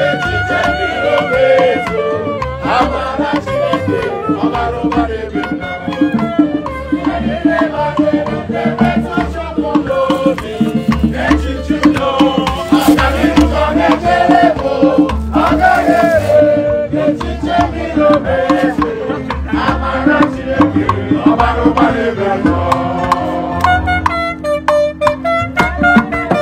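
Live Igbo ogene band music: a voice singing over drums and percussion in a steady rhythm.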